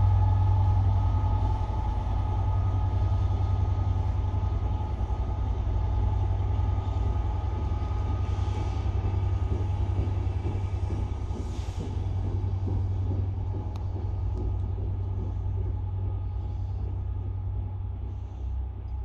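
Class 67 diesel-hauled passenger train rolling through the station at low speed: a steady deep rumble with a faint whine and light wheel clatter from the coaches passing. It grows fainter near the end as the train draws away.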